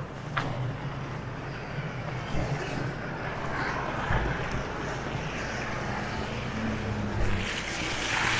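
A motor vehicle's engine humming steadily, with tyre noise on the snowy street growing louder near the end as it comes closer.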